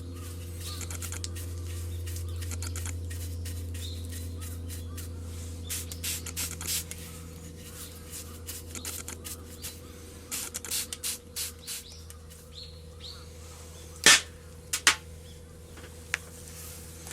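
Metal clicking and tapping as tools work on a tractor front axle during disassembly, with two sharp strikes in quick succession near the end, over a steady low hum.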